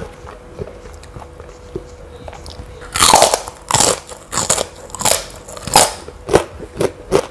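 Close-up biting and chewing of a crunchy kerupuk cracker dipped in peanut sambal. About three seconds in comes one loud crunching bite, followed by crisp chewing crunches about two a second.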